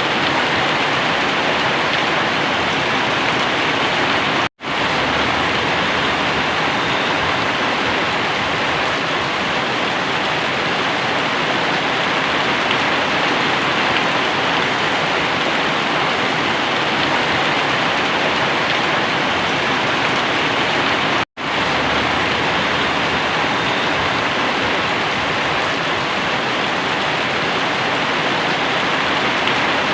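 Very heavy rain pouring down in a steady, dense hiss. It cuts out for an instant twice, about four seconds in and again about two-thirds of the way through.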